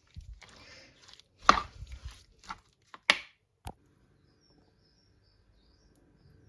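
Marinated chicken pieces being mixed with egg, flour and cornflour in a bowl: wet scraping and squelching with a few sharp knocks, about four in two seconds, then it goes quiet.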